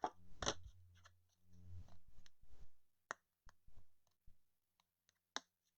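A few faint, sharp clicks, about half a second, three seconds and five and a half seconds in, with light handling noise between them.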